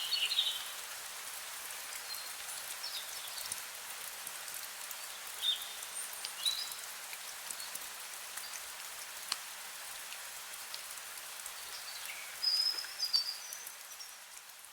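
Steady rain hiss with small birds chirping now and then, a short run of chirps near the start and another near the end. The sound starts to fade out in the last second.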